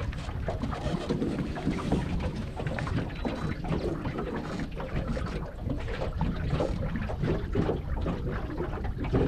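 Wind buffeting the microphone on an open boat, with water lapping and slapping irregularly against the hull.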